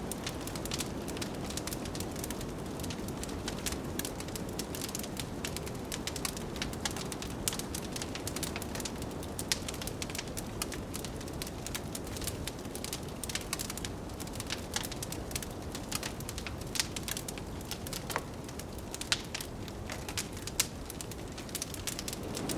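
Wood fire crackling, with a dense run of small sharp pops and a few louder snaps near the end, over a steady low rush of wind.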